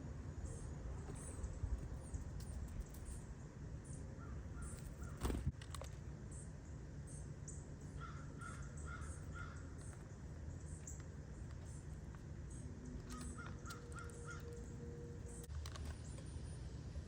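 Backyard birds calling: two runs of four or five short, evenly spaced calls, about eight and thirteen seconds in, over frequent quick high chirps from small birds and a low steady outdoor rumble. A single sharp knock sounds about five seconds in.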